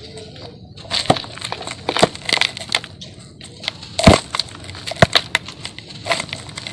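Dry sand-cement chunks crumbling and breaking apart: an uneven run of crunches and sharp cracks, the loudest about four seconds in.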